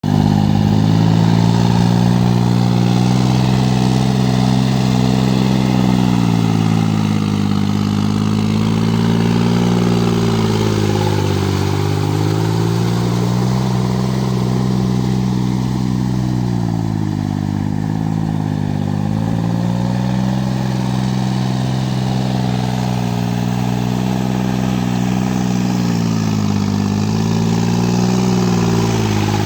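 Kubota L2202 tractor's three-cylinder diesel engine running steadily, its engine speed dipping and recovering about four times as it works through mud.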